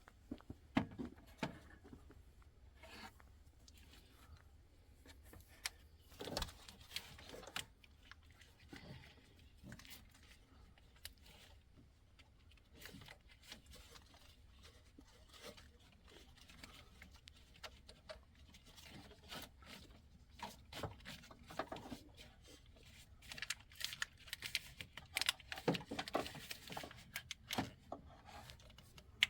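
Light, irregular metal clicks, taps and rustles of hands handling small parts at a starter motor's terminal while a crush washer is fitted onto the stud, with a few sharper knocks and a busier cluster of clicks near the end.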